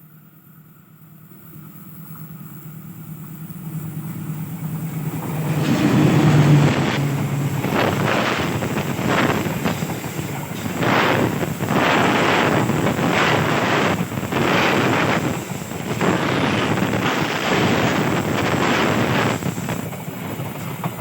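Diesel locomotive approaching, its engine drone growing steadily louder until it passes close about six seconds in. Then the train's wheels run past with a loud rushing noise and repeated clacks over the rail joints, about one to two a second.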